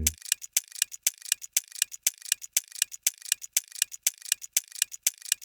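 Ticking-clock sound effect, with quick, even ticks about four a second, counting down the time to answer a quiz question.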